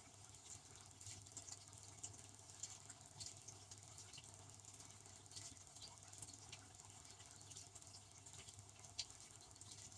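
Devanti benchtop dishwasher running its wash, heard faintly: water spraying and pattering against the inside of the tub over a steady low hum from the wash pump, with one sharper tick about 9 seconds in.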